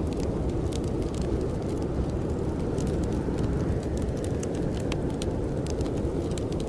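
Wood fire crackling with frequent small sharp pops over the steady low rumble of a blizzard's wind.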